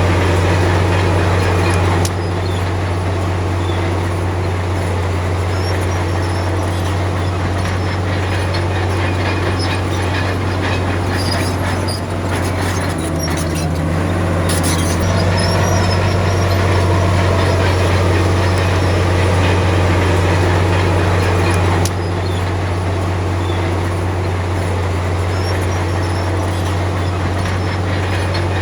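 Komatsu D53P crawler bulldozer working, its diesel engine running with a steady low drone while the steel tracks clank and squeal. There is a flurry of squeaks and clicks about halfway through.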